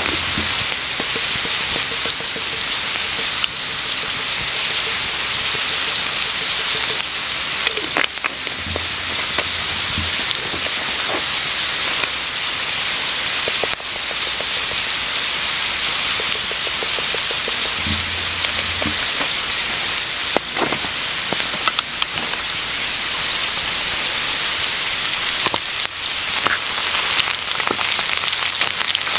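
Food frying in a pan over a campfire: a steady sizzle with scattered pops and crackles.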